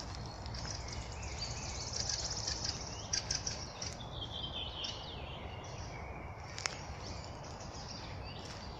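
Several songbirds singing in a spring woodland, with a fast trill about two seconds in and other short phrases around it, over a steady low background rumble. A single sharp click about two-thirds of the way through.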